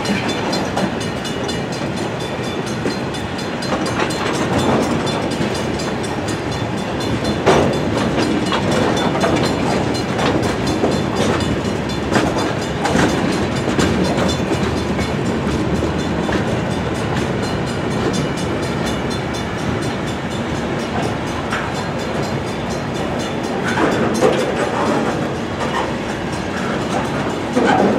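Freight cars rolling past on steel wheels: a steady rumble and rail noise, with irregular clicks and clanks as wheels pass over the rail joints.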